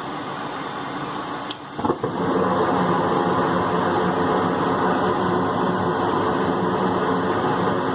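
Gas furnace running with a steady hum. About a second and a half in there is a click, and then the sound steps up into a louder, steady rush.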